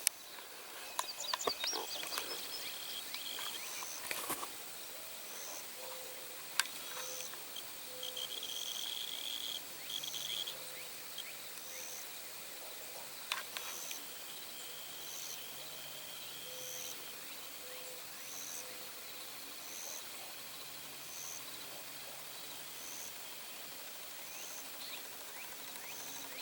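Outdoor ambience: an insect chirping in a steady rhythm about once a second, with birds chirping now and then and a few faint clicks.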